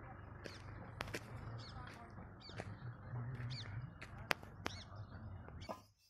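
A bird calling over and over in short, arched chirps about twice a second, over a steady low rumble, with a few sharp clicks, the sharpest about four seconds in.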